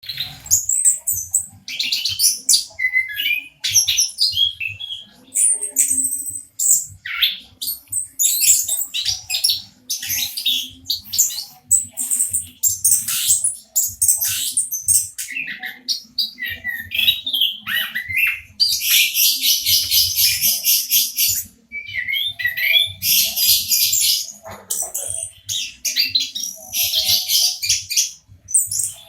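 Orange-headed thrush singing a long, varied song of quick high phrases, breaking into rapid trills several times, over a faint low hum.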